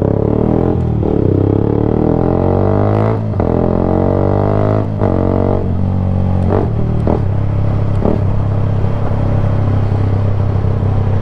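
Yamaha YZF-R sport bike engine through an unbaffled Black Widow slip-on can with no catalytic converter, loud. It accelerates with rising pitch, breaking briefly at gear changes about three and five seconds in, then settles into a steady drone.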